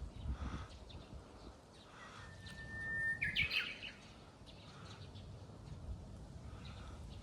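Japanese bush warbler singing its 'hoo-hokekyo' song once, about two seconds in: a long held whistle, then a quick flourish of notes sweeping up and down. Wind noise rumbles on the microphone, with faint short calls of other birds.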